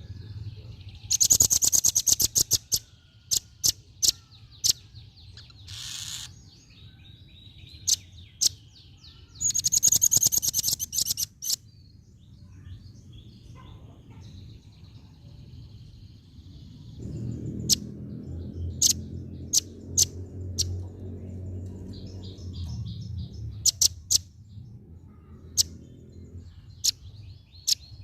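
Female velvet-fronted nuthatch calling: two rapid trills of sharp, high notes, one near the start and one about ten seconds in, with single sharp chips and softer twittering between them. A low, steady rumble runs underneath through the second half.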